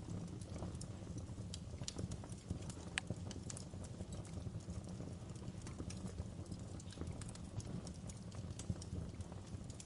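Wood fire burning in a fireplace: irregular sharp crackles and pops from the logs, several a second, over a steady low rumble of the flames.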